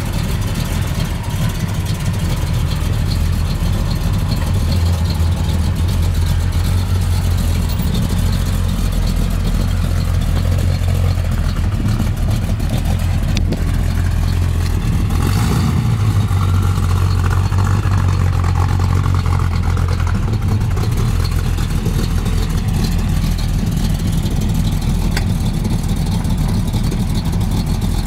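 1966 Chevrolet Impala's 400 V8 running with a steady low exhaust rumble as the car is driven slowly out of the garage and around the lot.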